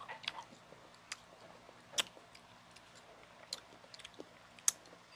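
Eating sounds of people eating ripe mango with spoons: quiet chewing with a few scattered sharp clicks and smacks.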